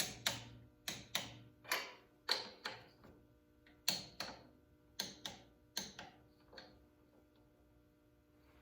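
Click-type torque wrench breaking over at 25 ft-lb on the cylinder head bolts of a Kohler engine after a head gasket replacement: a sharp metallic click with a short ring, about a dozen times, often in quick pairs, stopping about seven seconds in.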